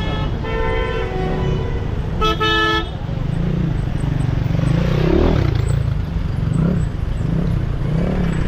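Vehicle horns honking twice, once about half a second in and once after two seconds, over the running engines of queued traffic. After the honks, a low engine rumble continues, rising and falling in pitch as vehicles move off in turn.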